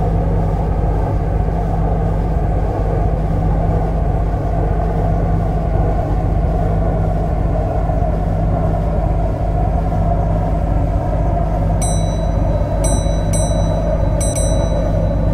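MTR Kwun Tong line C-Train running between stations: a steady low rumble of wheels on track with a faint motor whine that shifts slowly in pitch. A few brief high-pitched pings come near the end.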